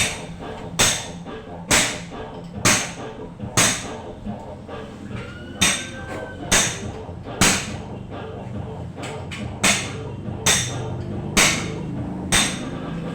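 Hammer blows on a metal swing arm, struck about once a second with a short pause partway through, each blow ringing briefly.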